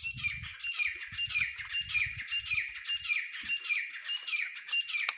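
A bird calling over and over: a short, falling squawk repeated about three times a second.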